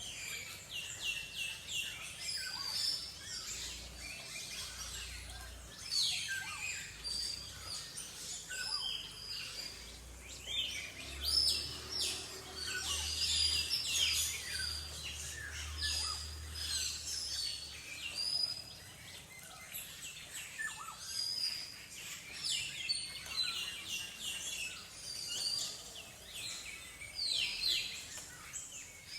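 Several small birds chirping and calling, with many short, high, downward-sliding notes overlapping. A low rumble runs for several seconds in the middle.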